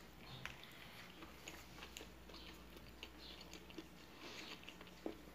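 Faint chewing of a mouthful of omelette, with small scattered mouth clicks and crunches.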